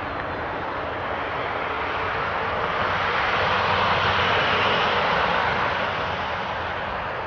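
A passing engine, most likely an aircraft overhead: a steady rushing noise that swells to a peak about four seconds in and then fades.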